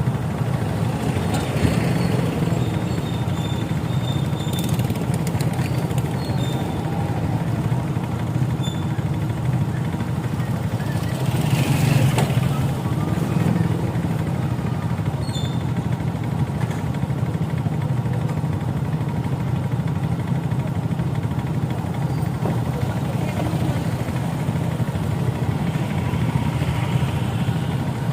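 Motorcycle engine running steadily while riding, with road and wind noise; the sound swells briefly about twelve seconds in.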